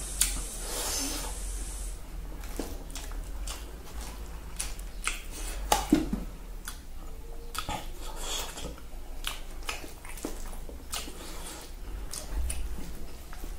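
Close-up eating sounds of someone eating rice and boiled egg by hand: chewing, lip smacks and scattered wet mouth clicks, with fingers mixing rice on a plastic plate. A high hiss fades out about two seconds in.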